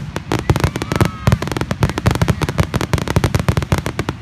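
Fireworks display going off in a rapid, continuous barrage of sharp bangs, several a second.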